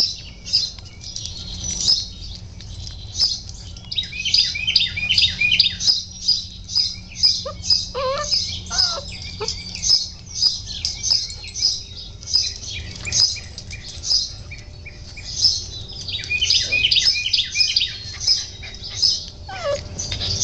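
Small birds chirping rapidly and continuously in high, twittering runs. A few short puppy whimpers come in, about eight seconds in and again near the end.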